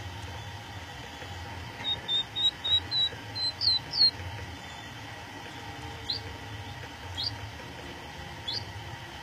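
Budgerigar chirping: a quick run of about eight short chirps that climb in pitch, then three single rising calls about a second apart, over a faint low hum.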